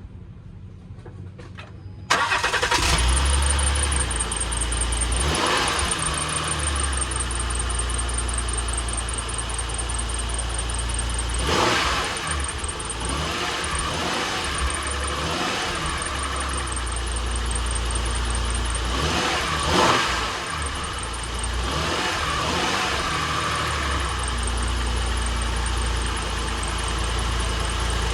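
A 2009 Acura MDX's V6 engine starting about two seconds in, then running steadily, with the revs swelling briefly a few times.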